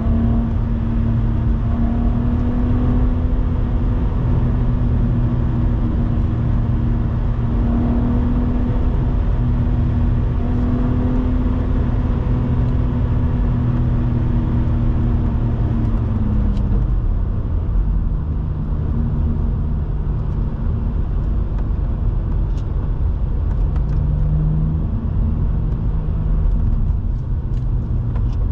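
BMW E87 130i's inline-six engine running at a steady cruise over constant tyre and road noise. About two-thirds of the way through, the engine note drops to lower revs and holds there, with a brief small rise a few seconds later.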